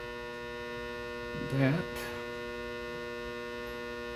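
Steady electrical mains hum with a stack of even overtones, unchanging in level, with a single spoken word about a second and a half in.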